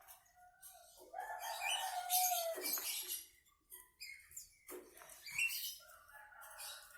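Javan myna (jalak kerbau) calling: a long call about a second in, a held tone mixed with harsh noise, then a second bout of shorter, broken calls.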